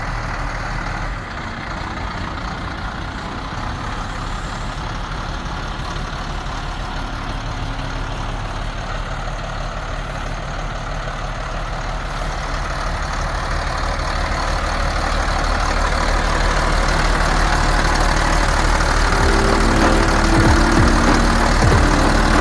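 International 4900 dump truck's DT466 7.6-litre diesel idling steadily, growing gradually louder over the second half.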